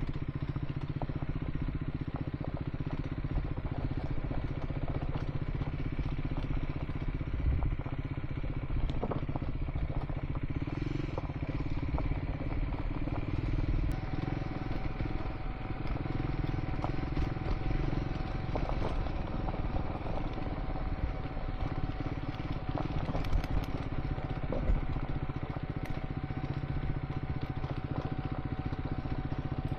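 Scrambler motorcycle engine running steadily at low speed on a dirt track, with scattered small ticks and clatter. A steady high tone joins about halfway through.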